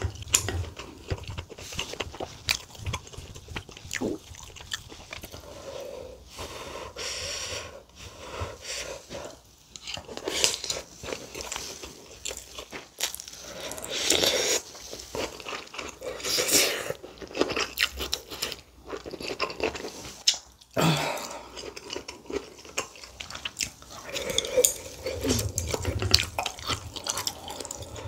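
Close-miked chewing and biting of a mouthful of spicy saury and mustard-leaf kimchi stew with rice, with wet mouth sounds and irregular clicks. It is louder around the middle, as another bite goes in.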